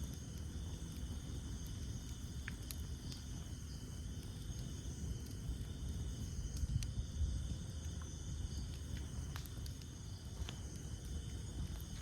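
Campfire of burning wood: a steady low rumble of flames with scattered sharp crackles and pops. A steady high insect trill runs underneath.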